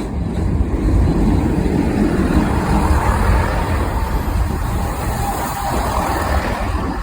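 British Rail Class 158 diesel multiple unit running past close by: a loud rumble that builds over the first second and then holds steady.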